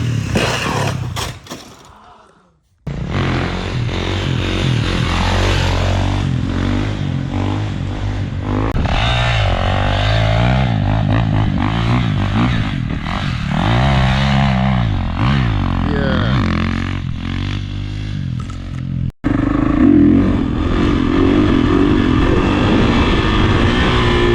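Kawasaki KX450 dirt bike's single-cylinder four-stroke engine revving up and down while riding. The sound fades out about two seconds in, returns abruptly, and breaks off sharply once more near the end before carrying on.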